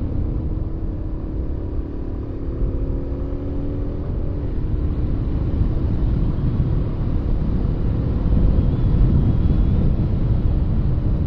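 Dual-sport motorcycle engine running under way, with road and wind rumble. The engine note drops briefly about four seconds in, then holds steady and grows a little louder toward the end.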